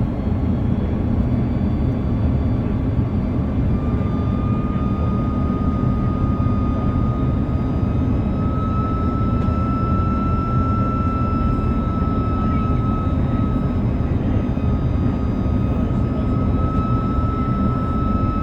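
Airbus A330 turbofan engines running on final approach: a steady dense rumble under a high whine that holds near one pitch, growing stronger and rising slightly a few seconds in.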